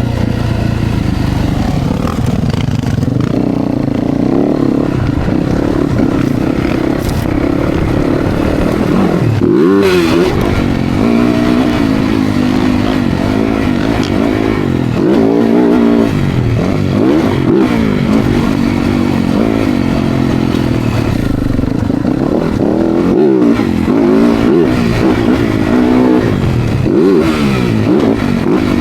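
Dirt bike engines revving up and falling back again and again as the bikes ride, the pitch climbing and dropping every second or two.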